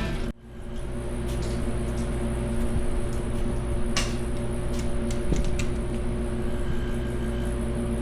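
Music cuts off just after the start, leaving a steady hum with a few level tones, and a few light clicks of hand tools being handled on the engine teardown.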